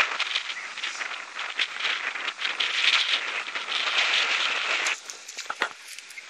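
Dense crackling and rustling, like movement through dry brush or leaves, that stops about five seconds in.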